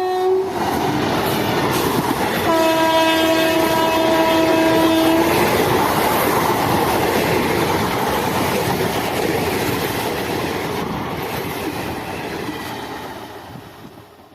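A train passing close by with a dense rumble of wheels on rail, its horn sounding briefly at the very start and again for about three seconds a couple of seconds in. The passing noise fades away near the end.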